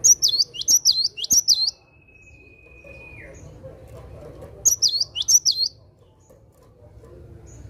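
Cinereous tit (gelatik batu) singing its repeated two-note 'wucit wucit' phrase: a quick run of three high, sharp notes, a pause, then about three more near the middle.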